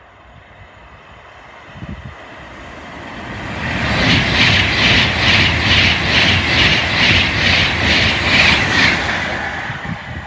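Avanti West Coast passenger train passing the platform close by. Its rushing noise builds, stays loud for about five seconds with an even beat of the wheels, two or three times a second, then fades away.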